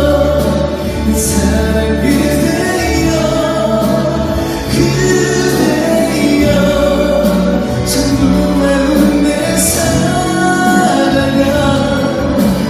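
Male singer performing a slow pop ballad live over a backing track.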